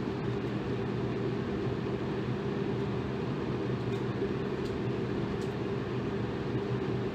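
Electric fan running steadily: an even rushing of air with a low motor hum.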